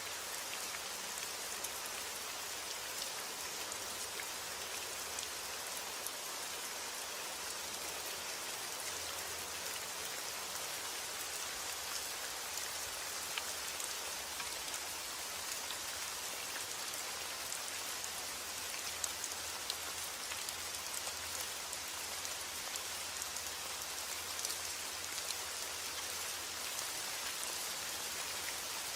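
Steady rainfall, an even hiss with scattered individual drop ticks throughout.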